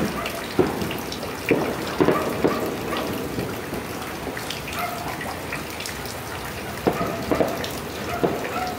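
Steady rain falling, with scattered sharp bangs of distant fireworks: five in the first three seconds and three more near the end.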